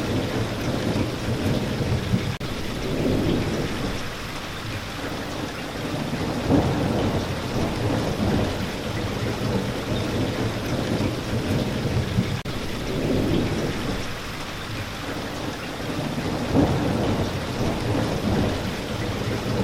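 Steady heavy rainfall hissing, with low rolling rumbles of thunder swelling and fading every few seconds.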